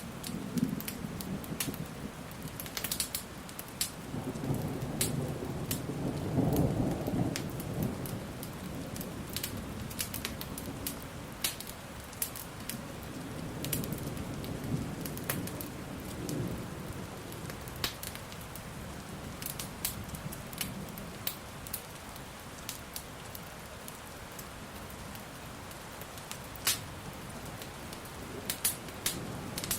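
Steady rain with thunder rumbling low several times, swelling and fading, and a fire crackling with sharp scattered pops throughout.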